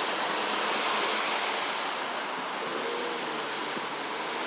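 Steady hiss and rush of traffic passing on an expressway, even throughout, easing slightly about two seconds in.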